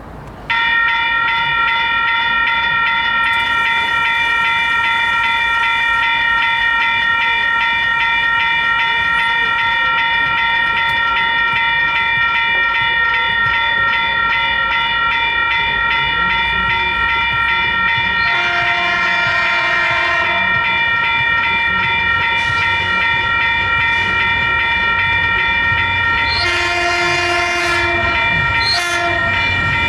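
Train horn sounding one long, loud, steady chord that starts abruptly about half a second in and is held throughout, with lower notes joining briefly twice in the second half, over the rumble of the passing train.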